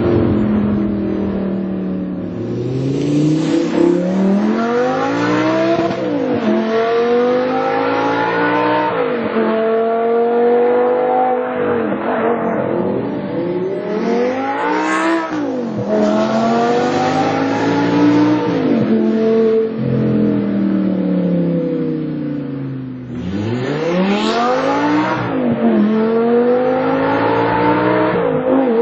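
Audi R8's 5.2-litre V10 through an AWE Tuning SwitchPath aftermarket exhaust, revving and accelerating. The pitch climbs and falls again many times over, every few seconds.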